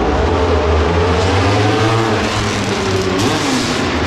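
Honda RC213V-S motorcycle's V4 engine running at low revs, its pitch wavering slightly.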